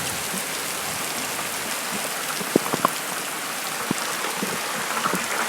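Heavy rain pouring steadily in a thunderstorm, a dense even hiss of drops on surfaces, with a few sharp ticks of single drops striking around the middle.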